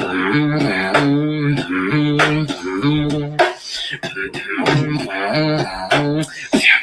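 Beatboxing: a hummed bass line in short repeated notes, about two a second, with sharp clicks and snare-like hits between them.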